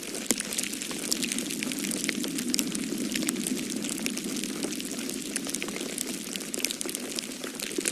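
Wood fire crackling with many small, irregular pops, over a low rushing of storm wind that swells for a few seconds in the middle.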